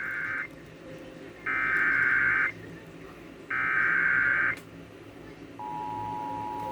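Weather radio emergency alert: three one-second bursts of SAME digital header data, a buzzy screech about a second apart, then about five and a half seconds in a steady two-tone attention signal begins, announcing a severe thunderstorm warning.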